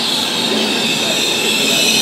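Passenger train coaches rolling along the platform track, the wheels on the rails making a steady loud running noise with a continuous high squeal.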